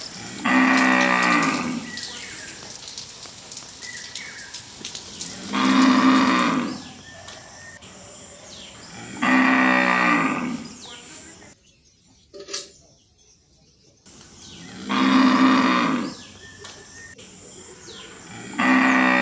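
A cow mooing five times, one long call every four to five seconds, each call sliding down in pitch at its end.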